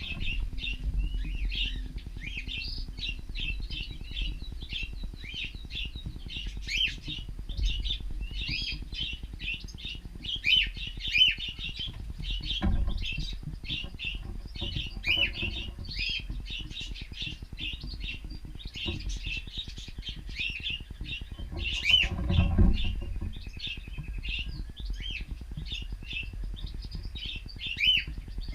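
Cockatiels chattering: a steady stream of short chirps and whistles, with a couple of louder, lower sounds, one a little before halfway and one about three quarters through.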